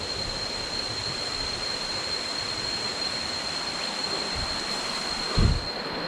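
Steady rushing of a jungle waterfall and stream, with a thin, steady high-pitched tone over it. A short low thump about five and a half seconds in.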